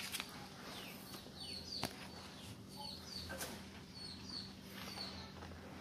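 Small birds chirping faintly, a string of short, high, falling chirps repeated every half second or so, over a faint steady low hum, with one sharp click about two seconds in.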